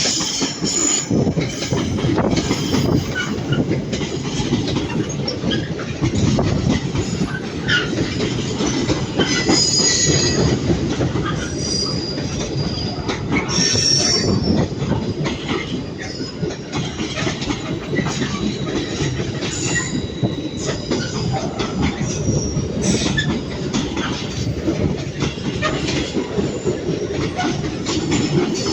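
A long intermodal container freight train, hauled by a Class 66 diesel, rolling steadily through the station. Its wagon wheels clatter over the rail joints and squeal on the track, with short high squeals again and again over a continuous rumble.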